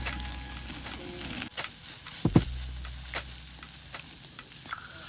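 Beef sizzling on a hot grill, a steady spitting hiss with scattered pops. A sharp double knock sounds about two seconds in.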